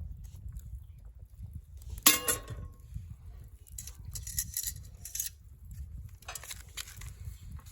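Metal cookware being handled for the steak: a sharp metallic clank that rings briefly about two seconds in, followed by scraping and rustling handling noises, over a low steady rumble.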